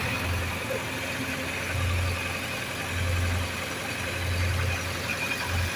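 Heavy vehicle engine idling, its low rumble swelling and fading about once a second.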